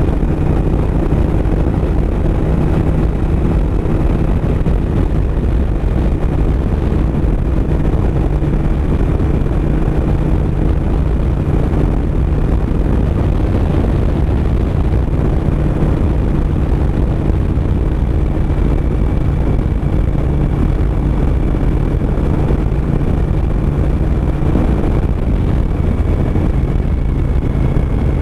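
Suzuki SV1000S's 996 cc V-twin engine running at a steady cruise, its note holding even and easing slightly near the end, with wind rushing over the microphone.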